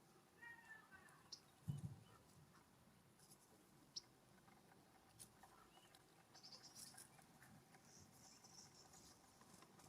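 Faint wild bird calls at a ground feeder: a short run of harsh pitched notes about half a second in, then faint high chirps later on. A soft thump comes a little under two seconds in, with a few sharp ticks.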